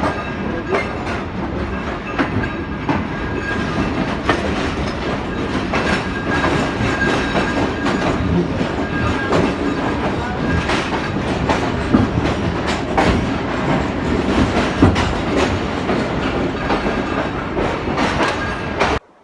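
Pakistan Railways passenger train running along the track, its wheels clattering over the rails with frequent sharp clacks. The sound cuts off suddenly near the end.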